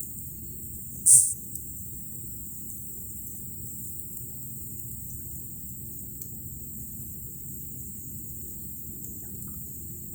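Crickets chirring steadily in a high register over a low, even rumble, with one loud, sharp, high-pitched burst about a second in.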